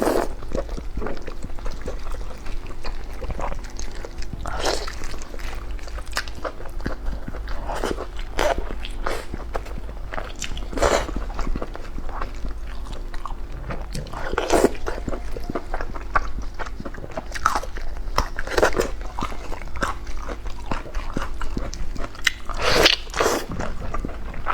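A person eating close to the microphone: repeated, irregular chewing and biting of food.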